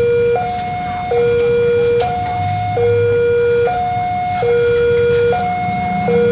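Railway level-crossing warning alarm sounding its electronic two-tone hi-lo signal, alternating between a lower and a higher tone about once every second and a half, with a low engine hum underneath.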